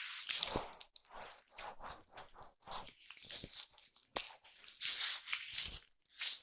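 A foam brush swept and dabbed across a microphone up close, making irregular scratchy, crunchy strokes with brief pauses between, a few of them with a low thud as the brush presses on the mic.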